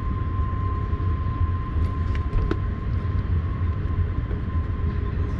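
Freight train running along the far riverbank: a steady low rumble with a thin, steady high whine over it and a few faint clicks.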